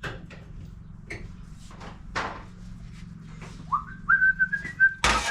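A man whistling a few held notes, starting after a few light knocks and clatters of handling tools and parts. A loud clank comes just before the end.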